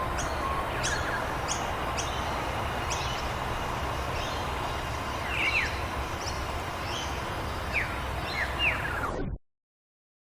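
Steady outdoor background noise with short, high chirps repeating every half second or so, and a few downward-gliding calls about five and a half seconds in and again near the end. The sound cuts off suddenly just after nine seconds.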